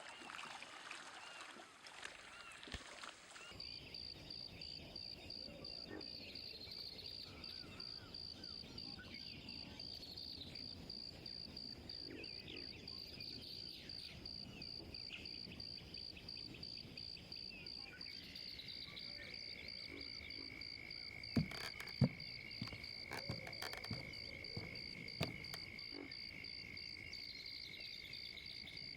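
Outdoor wildlife ambience: a steady, very rapid high-pitched pulsing trill of calling animals. A second, lower steady trill joins about two-thirds of the way in. A few sharp knocks sound shortly after that.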